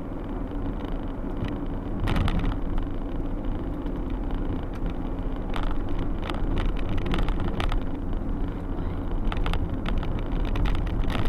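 Car driving: steady engine and road rumble as picked up by an in-car dashcam, with scattered short clicks and knocks.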